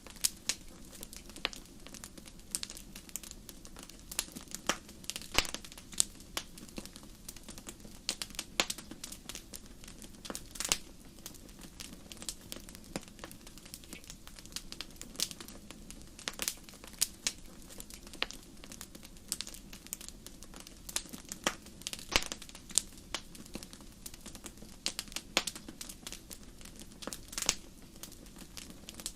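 Wood fire burning in a fireplace: irregular sharp crackles and pops, some much louder than others, over a steady low rumble of flames.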